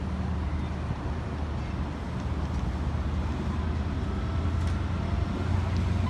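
LNER passenger train rolling past the platform at low speed: a steady low hum under wheel-on-rail rumble, growing a little louder in the second half.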